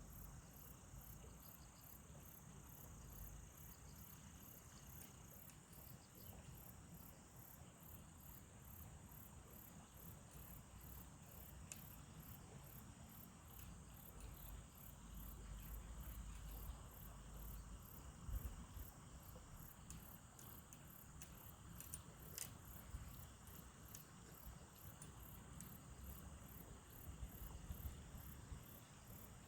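Faint, high-pitched insect chirping, an even pulse about twice a second, with a low rumble and a few small clicks underneath.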